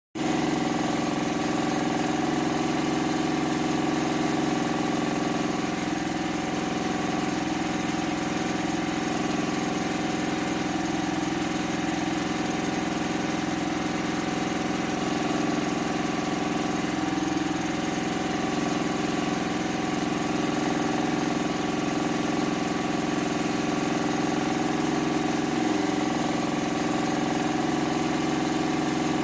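A small motor running steadily with an even, unchanging hum, as on a miniature DIY tractor.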